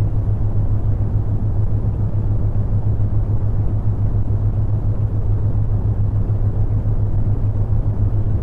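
Brown noise: a steady, deep, rumbling hiss that fades toward the highs, with a steady low hum around 100 Hz from the theta-wave tone layered on it.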